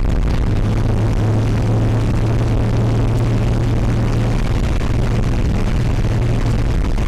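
An REO vehicle's engine and drivetrain running steadily on the move, a continuous low hum over a constant rushing noise.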